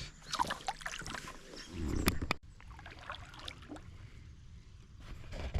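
Handling noise on a kayak: scattered small knocks and clicks with light water sounds, and a louder low rumbling stretch about two seconds in that breaks off suddenly.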